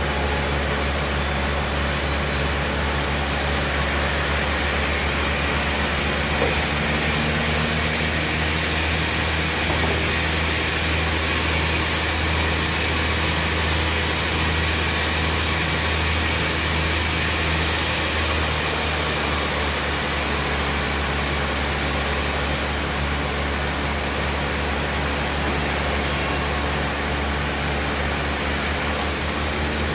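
Bandsaw sawmill running steadily: a low machine hum under a continuous hiss.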